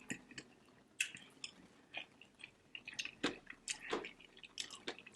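Close-miked chewing of barbecued ribs: irregular wet smacking and clicking mouth sounds with soft bites.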